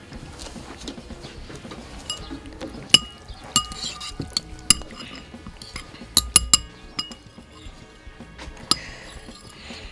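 Eating utensils clinking against dishes during a meal: a string of sharp, briefly ringing clinks, the loudest about three seconds in and several in quick succession about six seconds in.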